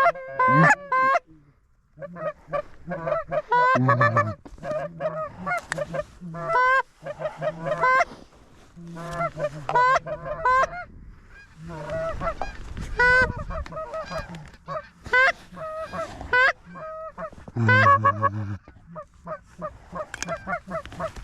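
Goose honks and clucks, many short calls in quick succession.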